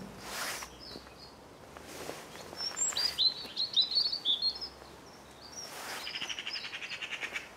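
Small songbird singing: a run of short, high chirping notes, then a fast trill of rapidly repeated notes near the end.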